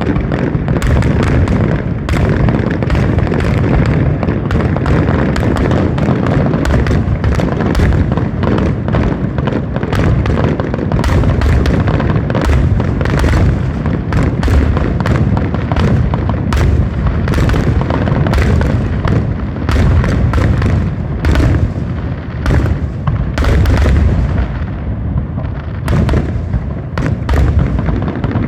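Fireworks display: a continuous barrage of booming shell bursts with many sharp cracks in quick succession over a steady low rumble.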